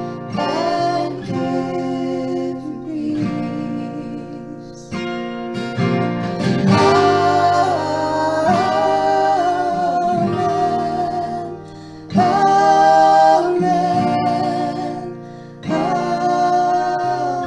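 Acoustic guitar accompanying singing, with held, wavering vocal notes over strummed and plucked chords; the singing drops out briefly twice.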